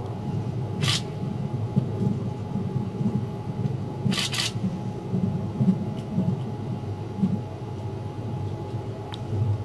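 Running noise heard inside a Cassiopeia sleeper express passenger car rolling along the track: a steady low rumble of wheels on rail with a faint steady hum. Two brief hisses come through, about a second in and about four seconds in.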